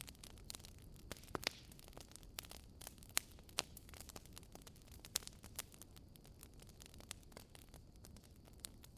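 Wood fire crackling in a fireplace: irregular sharp pops and snaps, a few of them louder, over a low steady hiss.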